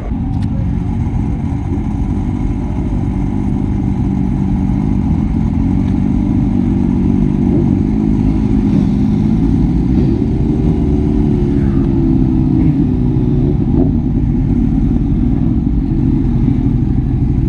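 Yamaha FZ-09 three-cylinder engine with aftermarket exhaust, running steadily at fairly low revs while riding, its pitch drifting gently up and down.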